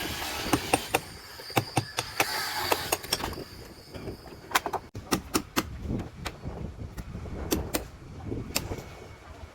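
A string of irregular, sharp knocks and clicks, some in quick pairs, over a steady hiss that fades about a second in.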